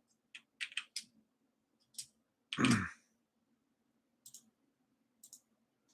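Scattered computer mouse clicks, in a quick cluster about a second in and then singly, while radar views are changed. Halfway through there is one short breathy sound from the person at the desk, louder than the clicks.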